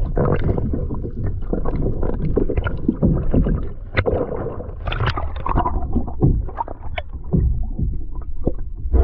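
Muffled water sloshing around a kayak, with many short knocks and clicks against the hull and gear and almost no high end.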